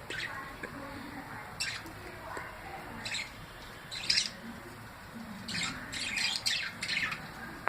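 Parrot squawking in short, high calls: single calls spaced a second or so apart, then several in quick succession near the end.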